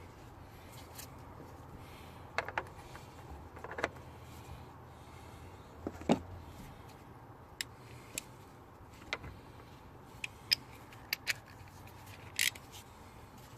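Scattered light clicks and metallic clinks of hand tools and parts being handled, about a dozen at irregular intervals, over a low steady hum.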